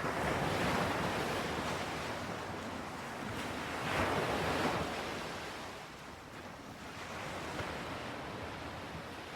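Ocean waves breaking and washing onto a shore. They swell just after the start and again about four seconds in, then ease off.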